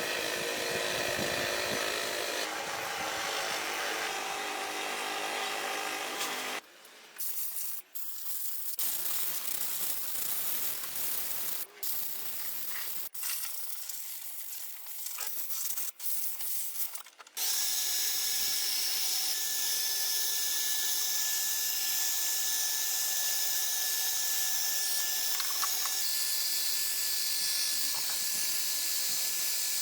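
Workshop tool and machine noises in separate short cuts, with several abrupt changes. From a little past halfway on, a steady even machine noise with a thin steady whine.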